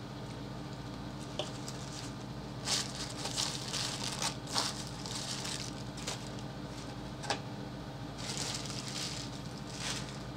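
Crunchy fried-chicken eating noises mixed with the crinkling of a burger's paper wrapper, in several short crackly bursts, over a steady low hum.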